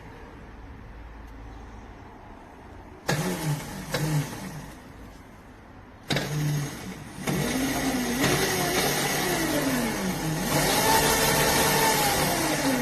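Children's electric motorcycle riding, its motor whining with a pitch that rises and falls as it speeds up and slows, over a loud rushing noise. It starts suddenly about three seconds in, drops away, and comes back louder about six seconds in.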